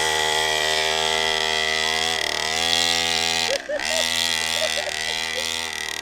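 Small 49cc two-stroke mini dirt bike engine running at a steady speed, its pitch dipping slightly about two seconds in and briefly dropping out about three and a half seconds in before picking up again.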